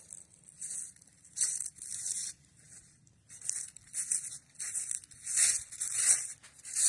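Footsteps crunching through dry leaf litter at a walking pace, a crunch about every half second.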